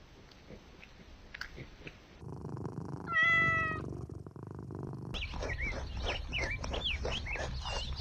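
Animal calls in quick succession: one loud drawn-out cry about three seconds in, then a run of quick, high chirps.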